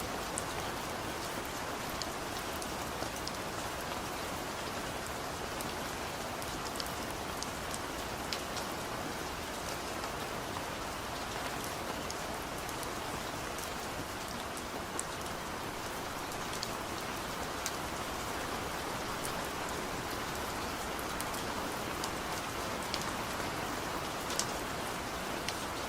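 Steady rain falling, a dense even hiss with scattered sharp taps of individual drops hitting a surface.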